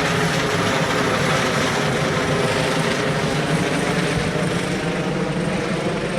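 Ambulance helicopter's rotor and engine running loud and steady as it flies off, the sound slowly fading.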